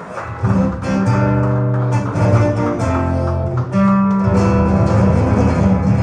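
Acoustic guitar music, plucked notes ringing one after another, growing louder about half a second in.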